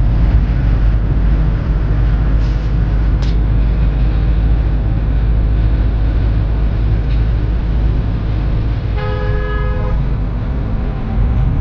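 Steady low rumble of a moving vehicle, with a horn sounding once for about a second near the end.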